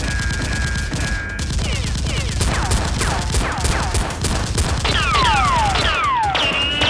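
Rapid gunfire sound effects, many shots in quick succession, with a run of falling whistles from about two and a half seconds in.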